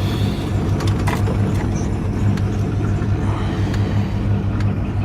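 Straight-piped pre-'86 small-block Chevy 350 V8 with headers idling, a steady low pulsing exhaust note.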